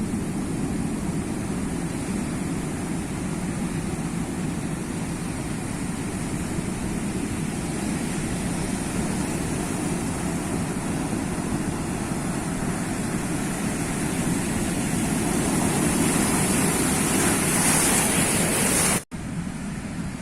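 Sea waves washing on the shore: a continuous rush of surf that swells louder as a wave breaks near the end, then cuts out for an instant and resumes a little quieter.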